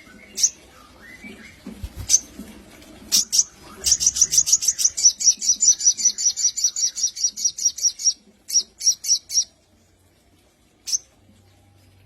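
Sogon bird singing: a few separate high chirps, then a fast trill of about seven short falling notes a second lasting about four seconds, then three more notes and a last single chirp.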